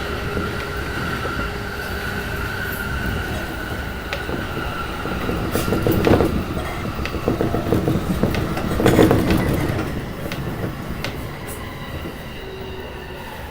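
Running noise heard inside the passenger cabin of an E233-1000 series electric commuter train: a continuous rumble and rattle of the wheels and car body with a thin steady whine, swelling louder twice in the middle and easing off toward the end.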